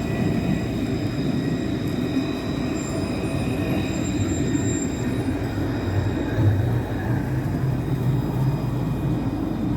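Electric tram running, a steady rumble of wheels on rail with several steady high whines from its electric traction equipment.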